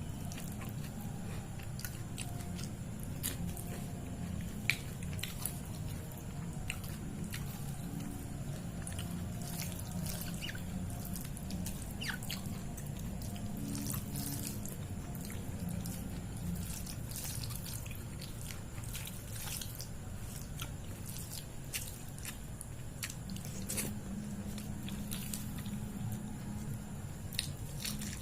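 Close-miked wet eating sounds of soft, saucy food being chewed, with many scattered sharp mouth clicks and smacks over a steady low hum.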